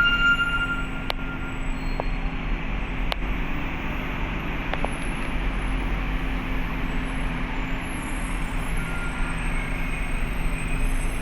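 Diesel engines running steadily on a ship's vehicle deck, a low even drone with a few sharp clicks in the first five seconds.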